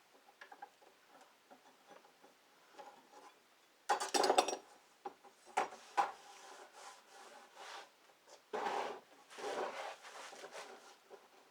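Hand tools and wood being handled: a clatter of knocks and clinks about four seconds in, a few single knocks, then a couple of scraping rubs later on.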